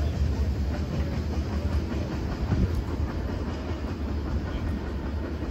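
Steady low rumble from a freight train, with no distinct wheel clicks or horn.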